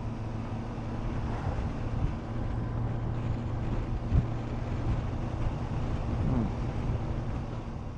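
Yamaha FJR1300 inline-four sport-touring motorcycle cruising at a steady speed, its engine drone mixed with wind rush on the microphone.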